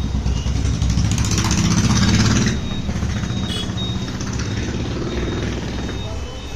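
Steady engine rumble from passing motor traffic, swelling louder with a rushing noise from about one second in until about two and a half seconds in.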